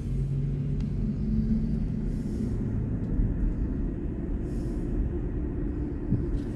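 Steady low road and tyre rumble of a moving BMW i4 M50, an all-electric car, with a faint low hum.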